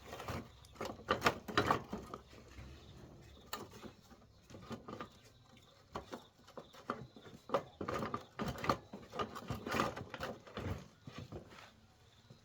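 Irregular clicks, knocks and scraping of hands handling objects, busiest about a second in and again from about seven seconds in.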